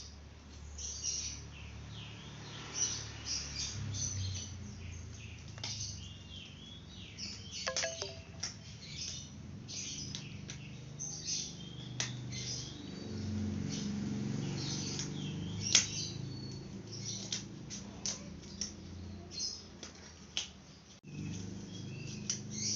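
Small birds chirping and twittering over and over, with a few sharp clicks and a low steady hum underneath.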